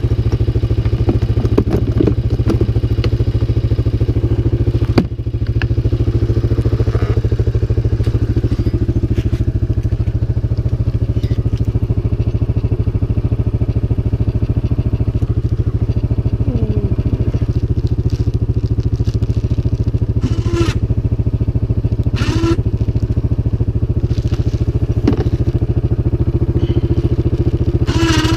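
CFMOTO 500 ATV's single-cylinder engine running at a steady speed, with a brief dip about five seconds in and a few short knocks and clatters later on.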